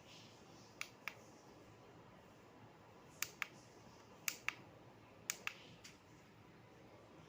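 Four pairs of sharp clicks, each pair about a quarter second apart, over a faint steady hiss of air.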